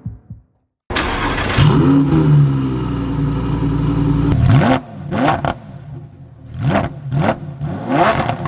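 Lamborghini Huracán STO's 5.2-litre V10 starting about a second in and flaring up, then settling to a steady fast idle. From about halfway it is blipped repeatedly, with short sharp revs that rise and fall quickly, several in a row.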